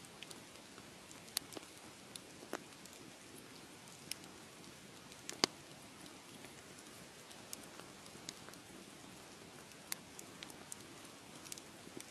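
Wood fire crackling: a soft steady hiss with scattered sharp pops and snaps, one louder pop about five seconds in.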